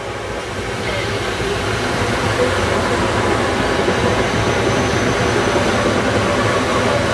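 A SEPTA Silverliner electric multiple-unit commuter train passes close by, its wheels rumbling on the rails. The sound grows louder over the first couple of seconds, then holds steady as the cars go by.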